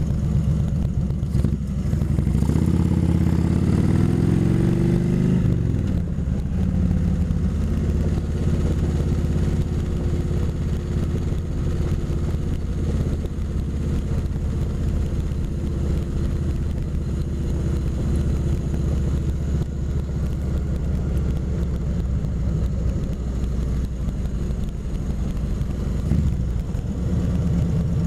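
Kawasaki Vulcan 2000 V-twin motorcycle engine under way. About two seconds in it pulls harder, rising in pitch for a few seconds, then falls back and runs at a steady cruise.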